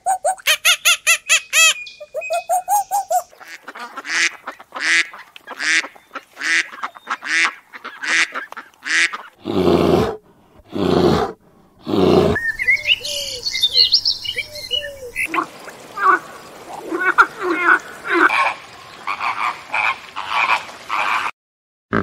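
A string of different animal calls. It opens with fast repeated calls, then comes a run of evenly spaced calls about every half second, three loud deep calls around the middle, and a mix of high chirping and honking calls after that.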